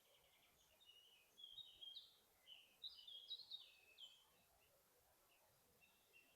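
Faint songbird song: a quick run of short, high chirping notes from about one to four seconds in, over a quiet background hiss of forest ambience.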